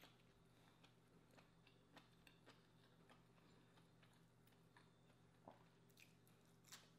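Near silence with faint, scattered wet mouth clicks of chewing, and a couple of slightly louder crisp crunches near the end as a cucumber slice is bitten.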